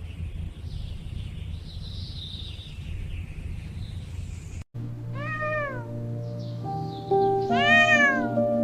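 A low steady rumble with faint warbling chirps, cut off suddenly just past halfway. Then a cat meows twice over background music, each meow rising and falling in pitch, the second louder and longer.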